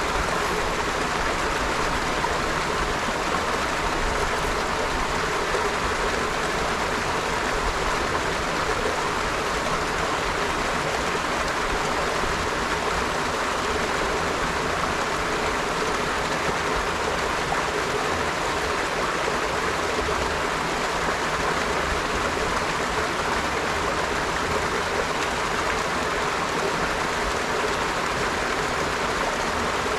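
River water flowing steadily, a continuous even rush of running water with no breaks.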